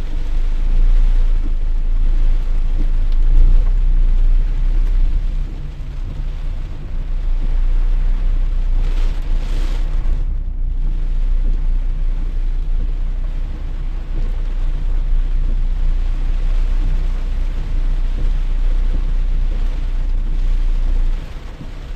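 Heavy rain, heard as a steady hiss over a loud, deep rumble that drops off sharply near the end.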